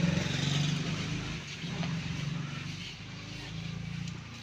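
Eicher 242 tractor's diesel engine running steadily, loudest at the start and a little quieter after the first second or two.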